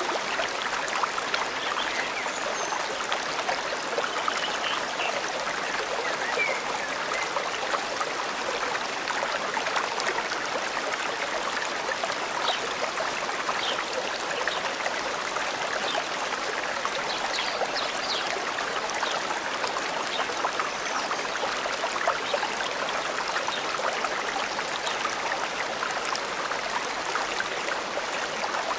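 Shallow stream babbling and trickling over stones, a steady rushing with many small splashes. A few faint short bird chirps come and go over it.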